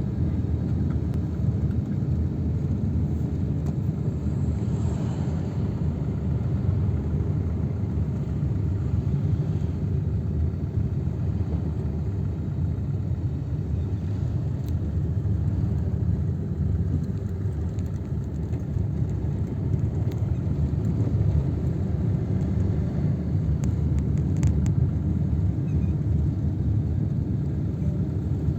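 Steady low rumble with no clear pitch and no distinct events.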